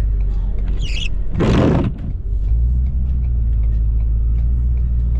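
A Ford 6.7 L Power Stroke V8 diesel running with a steady low rumble. About a second in there is a short squeak, followed by a brief loud burst of noise.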